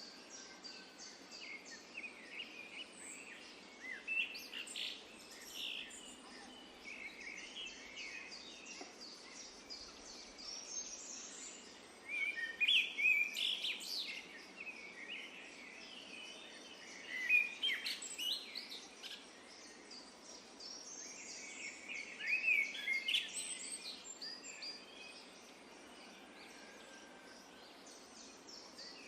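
Songbirds chirping and twittering in short, overlapping calls over a steady background hiss, with louder flurries of chirps a little under halfway through, just past the middle and about three-quarters through.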